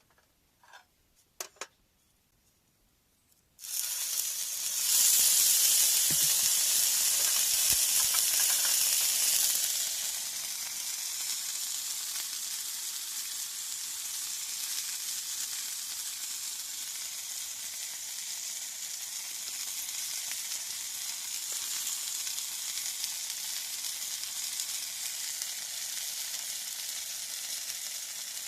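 A few light clicks, then about three and a half seconds in, pork loin meets a hot pan and starts sizzling. The sizzle is loudest for the next several seconds, then settles to a steady, quieter sizzle as the meat fries.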